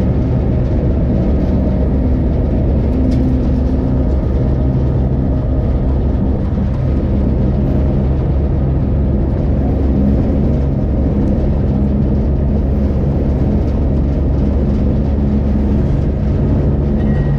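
Train running along the track, heard from on board: a steady low drone of the engine over the rumble of the wheels on the rails.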